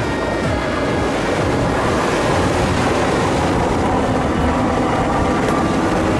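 Jet ski engine running steadily at speed, with the rush of water and wind.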